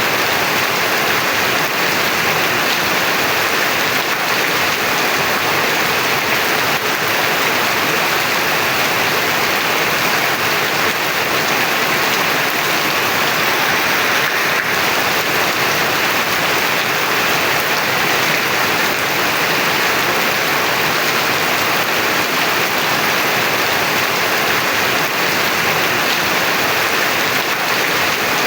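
Heavy rain pouring steadily, a dense, even hiss with no breaks or thunder claps.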